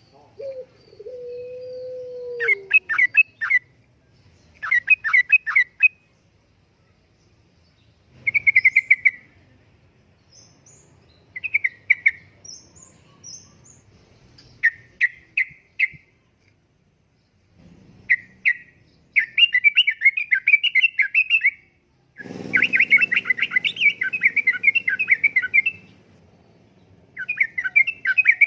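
Yellow-vented bulbul singing: short bursts of quick, bubbly, chattering notes repeated every few seconds, becoming longer and denser in the second half. A low, gliding hoot sounds once in the first few seconds.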